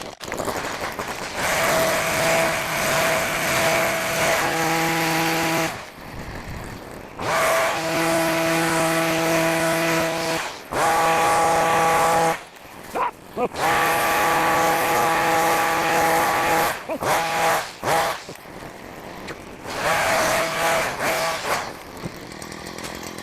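Small gas engine of a handheld grass-cutting power tool, revved up in bursts of a few seconds and dropping back several times while cutting tall grass.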